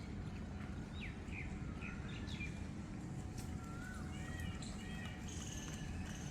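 Several wild birds chirping and whistling, short falling and rising calls, over a steady low rumble.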